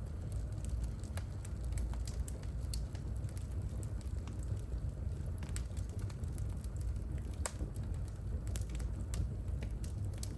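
Wood fire burning in a fireplace: a steady low rumble of flame with scattered sharp crackles and pops from the burning logs, a couple of them louder about halfway through.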